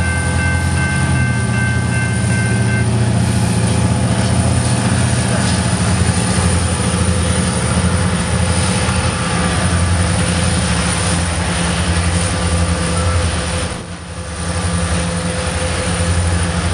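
Diesel freight locomotives running under power as a BNSF freight train rolls past and away, a steady low engine drone with the rumble of the cars. A few high steady tones sound together at the start and stop about three seconds in.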